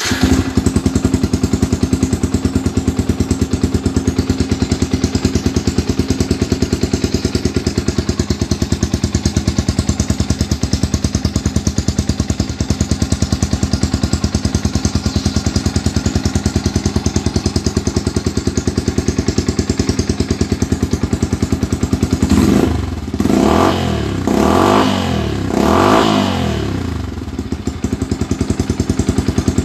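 Yamaha Vixion single-cylinder four-stroke engine idling through a GJZ Racing aftermarket exhaust, with a steady pulsing beat. About three-quarters of the way through it is revved in several quick blips that rise and fall, then it settles back to idle.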